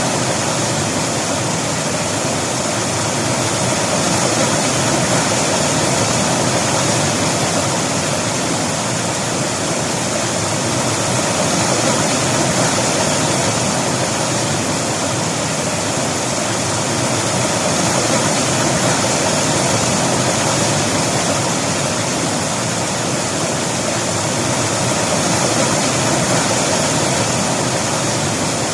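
River water rushing over rocks: a steady, full rushing that swells and eases gently every few seconds.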